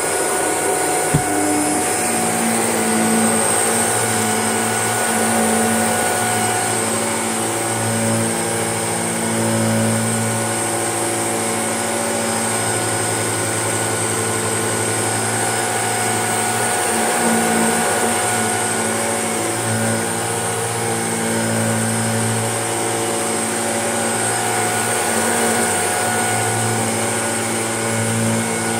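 Shark vacuum cleaner running steadily: an even motor hum with a high whine over it, and a single knock about a second in.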